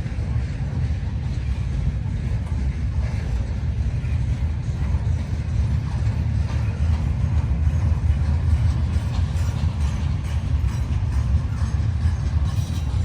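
Freight train cars rolling past on the rails: a steady low rumble with faint clicks and rattles, more of them toward the end.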